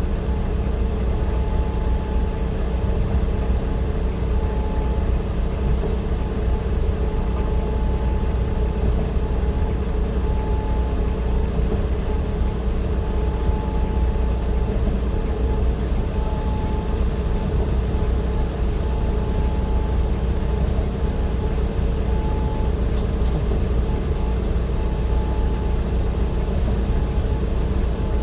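A vehicle running steadily: continuous low engine and road rumble with a steady hum over it.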